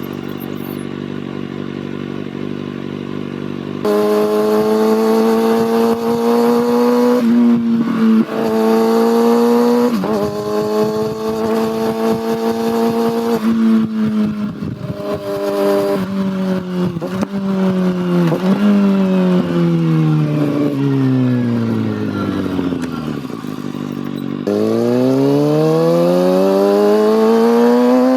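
Kawasaki ZX6R inline-four motorcycle engine, first holding a steady note, then accelerating through the gears: the pitch climbs and drops back at each upshift. It then slows in a long falling note broken by short rev blips on the downshifts, and near the end it accelerates hard again with a steeply rising pitch.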